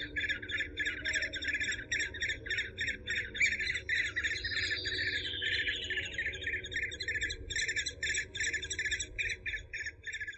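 Eurasian hobby (Falco subbuteo) calling: a rapid, even series of sharp 'kew-kew-kew' notes, about five a second, with a falling whistle about halfway through.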